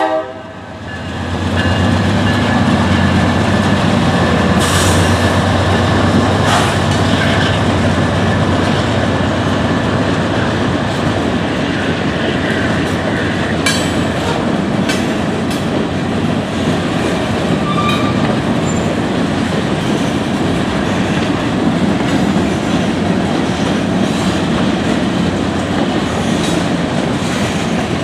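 A freight train rolling through a grade crossing. The GE diesel locomotives' engines run with a deep hum for the first several seconds, then the railcars roll past with wheels clicking over the rail joints and a few brief wheel squeals.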